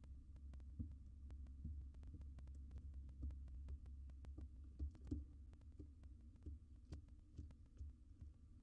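Faint, irregular taps and soft thumps of a barn owl's feet and talons on the floor of a wooden nest box as it walks about, over a steady low hum.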